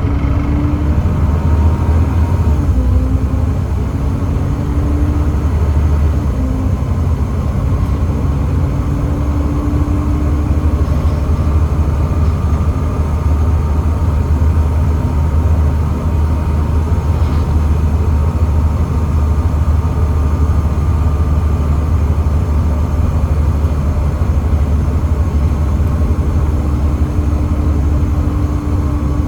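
Volvo B7TL double-decker bus running on its Volvo D7C 7.3-litre diesel engine through a ZF Ecomat gearbox: a steady, loud low drone, with a faint hum that comes and goes.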